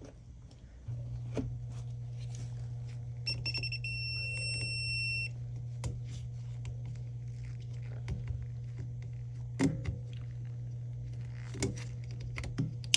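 Vissani beverage cooler's compressor humming steadily without starting, from about a second in; the compressor is not starting, which points to a bad start device or a bad compressor. A non-contact voltage tester beeps with a steady high tone for about two seconds, and at the end the overload protector trips with a loud click as the hum stops.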